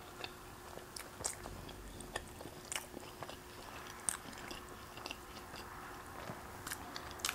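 Chewing of soft, fluffy pancakes close to the microphone: faint mouth clicks and smacks scattered about once a second.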